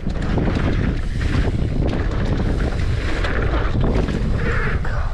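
Wind buffeting a riding camera's microphone as a mountain bike rolls fast down a dirt trail, with a steady rumble and many small ticks and rattles from the tyres and bike.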